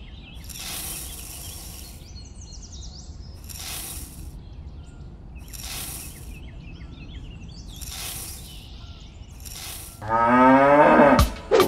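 A cow mooing once, long and loud, about ten seconds in. Before it come five short hissing rushes of noise about two seconds apart and faint bird chirps.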